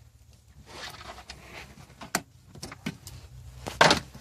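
A few sharp metallic clicks and knocks, then one loud clattering knock near the end: tools and hardware handled as the car battery's negative terminal is reconnected.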